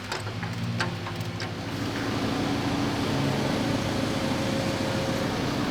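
A few sharp metallic clicks in the first second or so, then a vehicle engine running steadily, growing louder about two seconds in.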